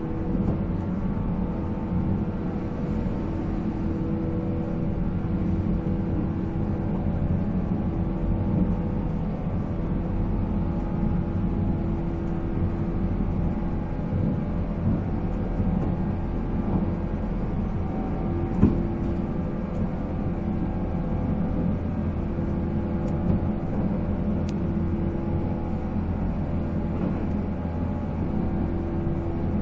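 485 series electric train running at a steady speed, heard on board: the even hum and whine of its MT54 traction motors and gears over steady wheel and rail rumble, with one sharp click about two-thirds of the way through.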